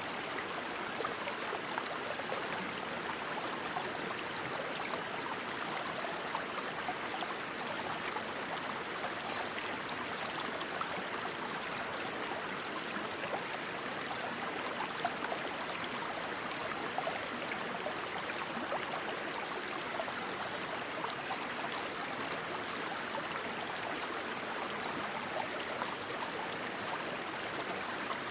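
Stream water rushing steadily, with a small bird giving short, high chirps over it every second or so and two brief fast trills, about ten seconds in and near the end.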